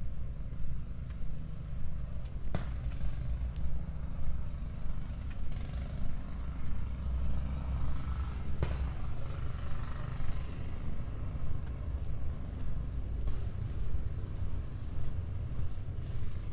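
Low, steady rumble of road traffic, swelling in the middle as a vehicle passes.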